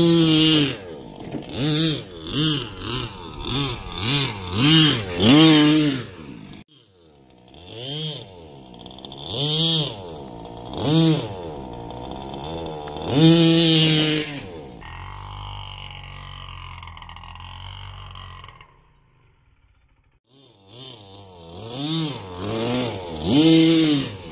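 HSP 1/8 monster truck's 3.5 cc two-stroke nitro engine revving in quick repeated blips, the pitch rising and falling on each. The revving breaks off twice: once for a quieter, steadier stretch and once for a short near-silent gap, before the blips resume.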